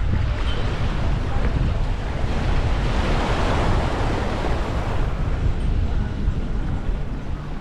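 Small waves washing onto the beach, one wash swelling and fading around the middle, under heavy wind buffeting the microphone.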